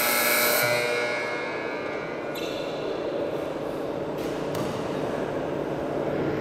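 Electric game buzzer at a basketball game, a steady buzzy tone that cuts off about half a second in and rings away over the next second or so. It is followed by general court noise with a few short clicks.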